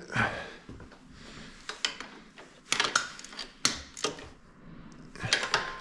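Scattered, irregular metallic clicks and knocks of a socket wrench and parts being handled at a motorcycle engine's spark plug, checking the plug for tightness.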